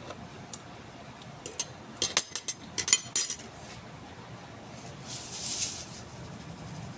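A metal cooking utensil clinking against a pot in a quick run of about a dozen sharp clinks, then a brief hiss about five seconds in.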